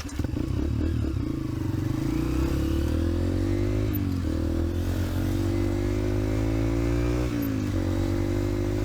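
Dirt bike engine pulling away and accelerating. Its pitch climbs steadily and then drops with an upshift, twice: about four seconds in and again about seven seconds in.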